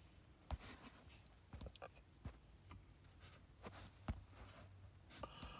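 Near silence: faint, scattered light taps and clicks, irregularly spaced, over a faint low hum.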